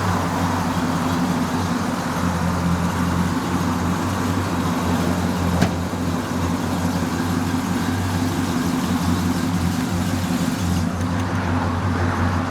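A classic car's engine idling steadily with a low, even rumble. A single sharp click comes about five and a half seconds in.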